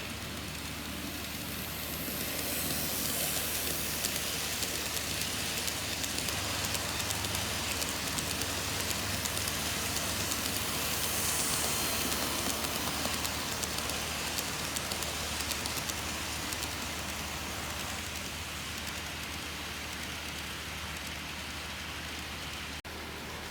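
KATO N-gauge model train, an EF510 locomotive hauling Hokutosei blue-train coaches, running on its track: a steady whirring hiss of motor and wheels with fine rail clicking, louder from about two seconds in to about sixteen seconds in as it passes close, then easing.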